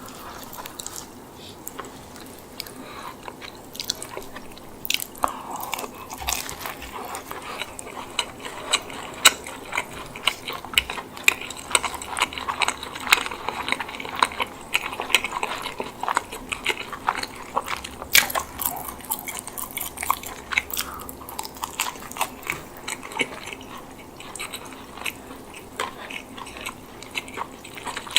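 Close-miked eating of a chicken bake: biting and wet chewing of soft bread, herb chicken and mozzarella, with a dense, irregular run of mouth clicks that is busiest in the middle.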